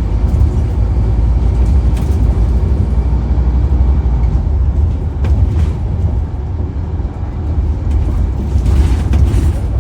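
Scania N230UD double-decker bus's five-cylinder diesel running with a steady low drone. It eases off about six seconds in and builds again near the end.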